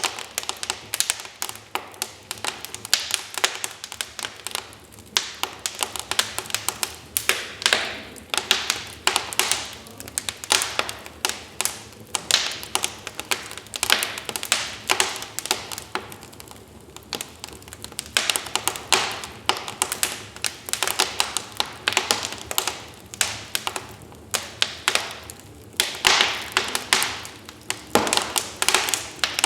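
Wood fire burning in a fireplace, crackling with many irregular sharp pops and snaps, some louder than others, over a faint hiss.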